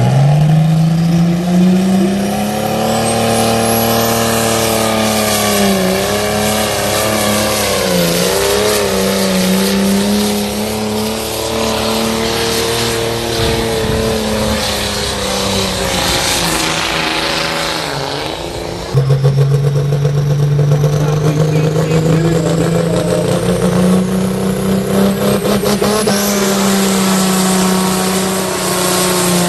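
Heavily modified pulling tractor engine running hard at high revs, its pitch sweeping up at the start and then wavering as it labours. About two-thirds of the way through the sound cuts abruptly to another loud engine run at a steadier, lower pitch.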